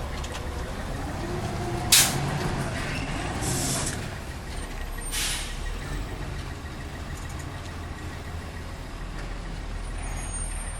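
Engine of a CCC LET2 garbage truck running steadily, with a sharp hiss of released air about two seconds in and another around five seconds in.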